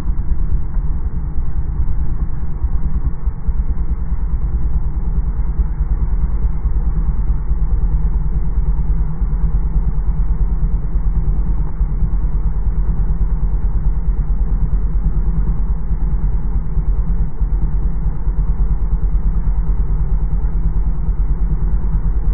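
Motorcycle engine idling steadily, a low even beat with no revving.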